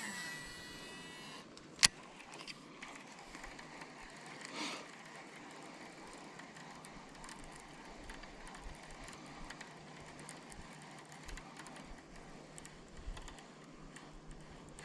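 Shimano SLX DC baitcasting reel being cast and retrieved. The spool whines with rising and falling tones from its electronic brake for the first second or so. A sharp click comes just under two seconds in as the reel engages, followed by the faint, steady gear noise of cranking a crankbait back in.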